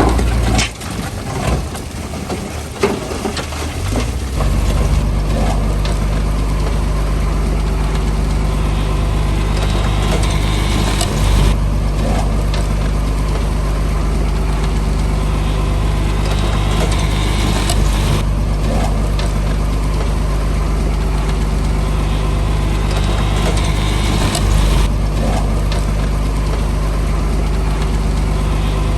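Heavy diesel engine of construction machinery running steadily. In the first few seconds it is uneven, with irregular clanks and knocks. After about four seconds it settles into a constant low drone.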